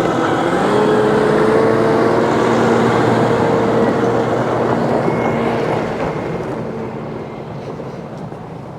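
A motor running with a steady hum, its pitch dipping and then rising again about half a second in, fading gradually over the last few seconds.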